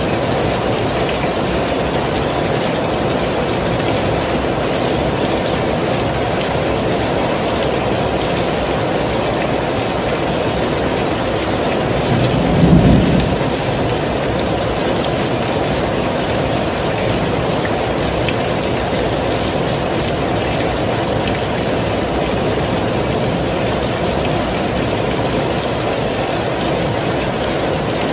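Heavy rain falling steadily in a dense, even hiss, with a short low rumble of thunder about halfway through.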